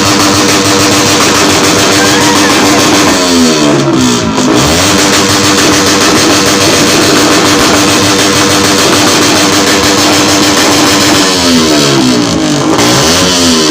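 Loud exhaust of an idling vehicle, revved up hard twice (once about three seconds in, again near the end), its pitch climbing and falling back each time.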